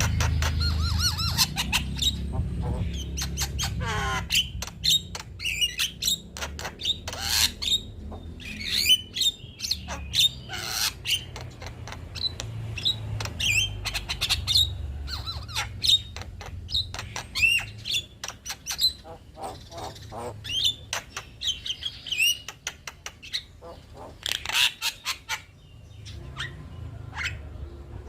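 Male Javan myna (jalak kebo) singing a chattering song of rapid clicks, harsh squawks and short whistles, over a steady low hum.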